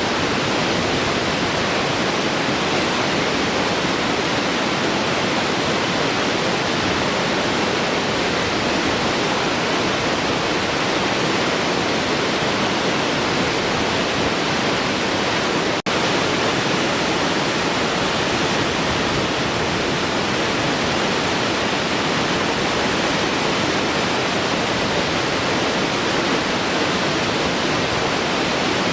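Large waterfall flowing: a steady, loud rush of falling water, cut by a momentary dropout about halfway through.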